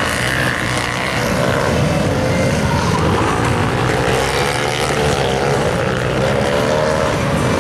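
Supermoto motorcycles running on a race track, their engines rising and falling in pitch as they accelerate and back off.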